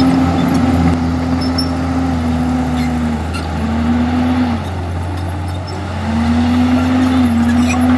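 Diesel engine of a Komatsu D51EX bulldozer running steadily, its pitch sagging through the middle and recovering near the end, with faint scattered clicks.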